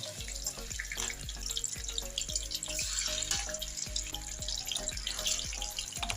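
Background music with a steady beat over the steady hiss of water running from a kitchen tap.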